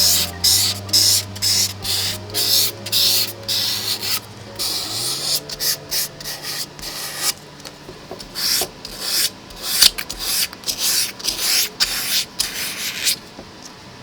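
Sandpaper rubbed back and forth by hand over a bicycle frame, in quick even strokes of about two to three a second, stopping near the end.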